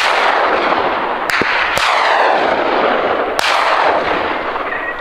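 Three hunting gunshots: two about half a second apart a little over a second in, and another about three and a half seconds in. Each is followed by a long rolling echo.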